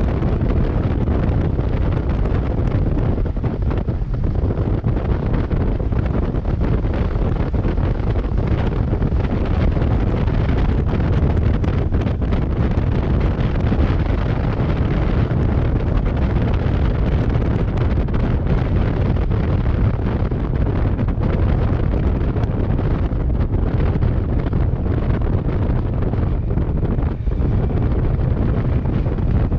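Steady, loud wind buffeting the microphone of a camera riding along on a moving motorcycle, a Kawasaki Versys 650, at road speed. The wind noise sits mostly in the low end and covers the bike's own engine sound.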